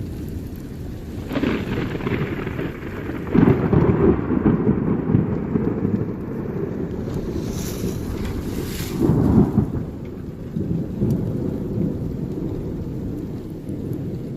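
Thunder rumbling continuously during a rainstorm, swelling louder about three seconds in and again about nine seconds in, with rain in the background.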